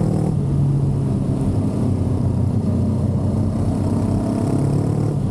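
Motorcycle engine running steadily while under way, with wind rush over it. The engine note climbs slightly near the end.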